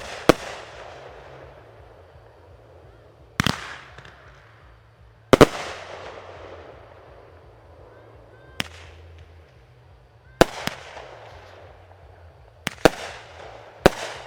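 Fireworks bursting: about ten sharp bangs at uneven gaps, several in quick pairs, each followed by a fading echo. The loudest bang comes about five seconds in.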